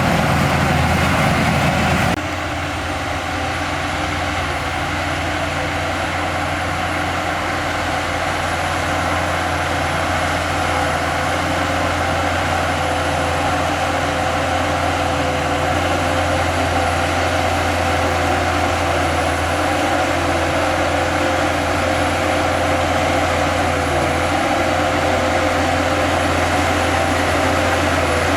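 Heavy diesel engine of earthmoving machinery running steadily under load, with an abrupt change in the sound about two seconds in.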